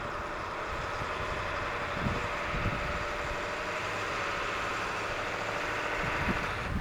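International T444E V8 turbo-diesel engine running steadily, with wind buffeting the microphone.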